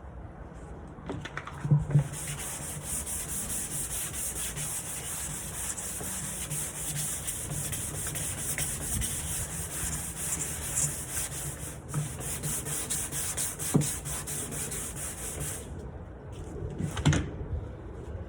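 Sanding on a wooden nightstand: a steady scratchy hiss of abrasive on wood. It stops about 16 seconds in, and a couple of short knocks follow near the end.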